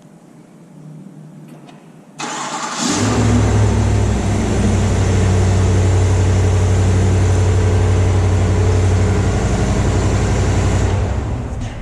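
A 2025 Chevrolet Tahoe's engine starts. About two seconds in, the starter cranks briefly, then the engine catches, revs up for a moment and settles into a steady idle. The sound falls away near the end.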